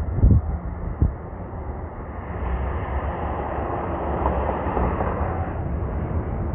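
Outdoor street noise: a steady low rumble, two sharp knocks near the start, then a passing vehicle that swells and fades over a few seconds.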